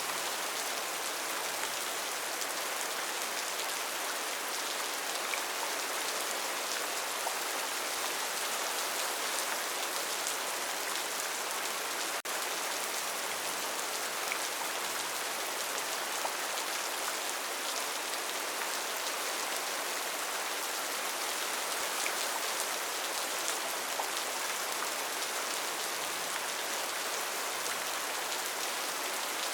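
Steady rainforest rain: an even hiss of many drops, with no let-up or change in strength.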